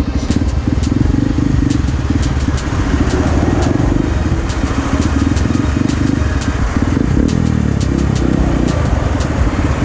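Small motorcycle engine running at low, steady speed as it creeps between stopped trucks, heard from the rider's seat. Irregular sharp ticks sound throughout.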